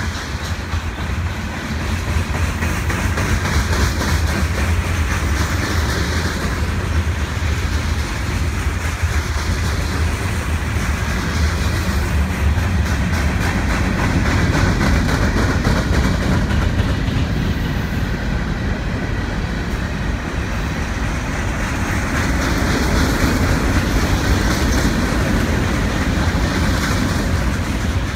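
Freight train of covered hopper cars rolling past: a steady low rumble of steel wheels on the rails, with a rapid clicking of wheels over the track.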